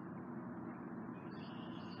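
Low steady rumble of a distant train approaching, with a short high bird call about one and a half seconds in.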